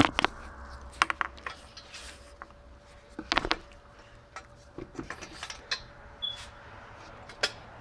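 Scattered metallic clinks and knocks of a 14mm crow's foot wrench on a 3/8-inch drive extension being worked onto an exhaust manifold nut, the loudest knocks coming about three and a half seconds in. A faint steady hum runs underneath.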